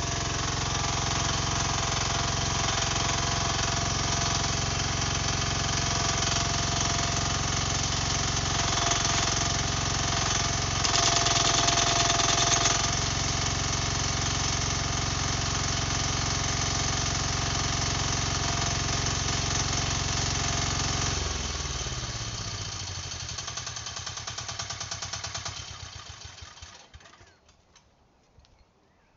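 Mini excavator's engine running steadily, louder for about two seconds near the middle, then shut off: it winds down over several seconds and stops.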